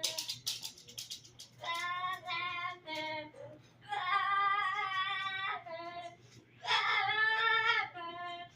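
Pet parrot singing a wordless tune of its own: a string of held notes with short breaks between them, after a few sharp clicks in the first second.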